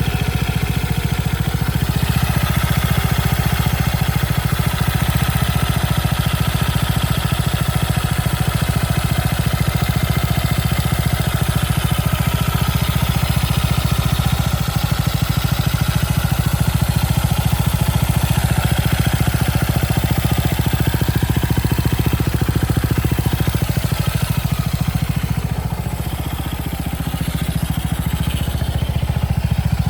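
Honda XL230's single-cylinder four-stroke engine running steadily at idle, its level dipping slightly about five seconds before the end and then coming back up.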